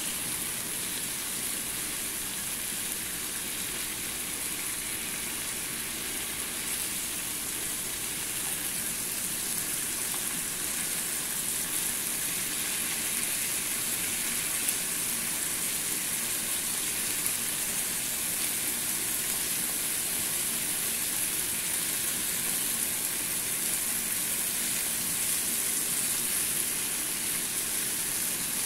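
Chicken breasts sizzling steadily as they pan-fry in oil in a non-stick frying pan.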